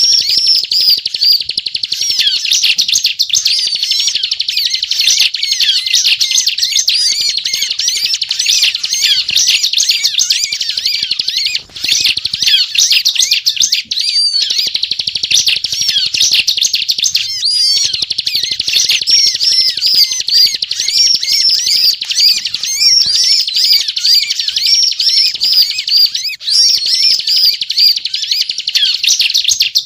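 Bar-winged prinia (ciblek) singing non-stop in a fast, high-pitched chattering run of notes, broken only by brief pauses about twelve seconds in and again near the end.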